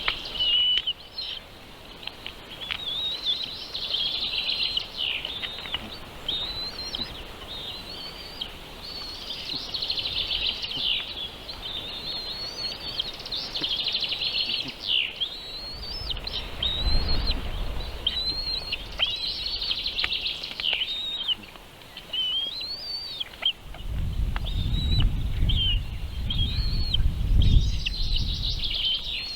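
Baby birds in a nest chirping continuously, with rapid, high-pitched begging cheeps as they are fed. A low rumble comes in twice, once in the middle and for a longer stretch near the end.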